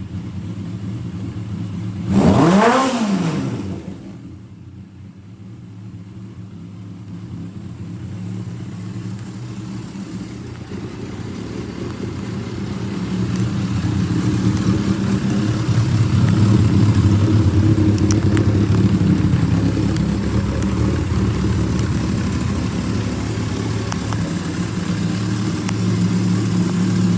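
Kawasaki Zephyr 1100RS's air-cooled inline-four engine idling, blipped once about two seconds in, its pitch rising and then falling back, before settling into a steady idle that grows louder over the second half.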